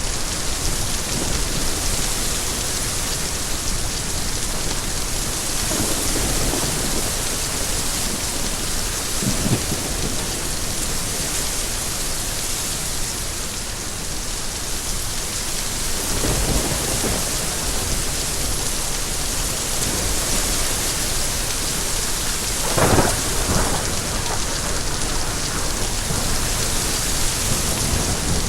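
Steady heavy rain pouring down, with thunder rumbling several times; the loudest rumble comes about three-quarters of the way through.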